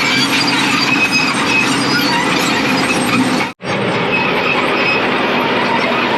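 Kubota KX080 excavator tracking along, its undercarriage squealing and rattling with short, repeated high squeaks. The sound cuts out for an instant about three and a half seconds in.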